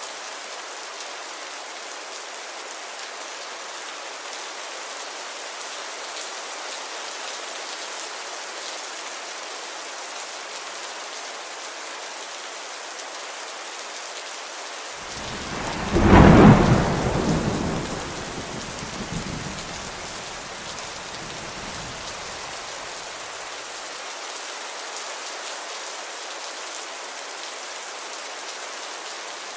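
Steady rain falling, with a single clap of thunder about halfway through that rumbles and fades away over several seconds.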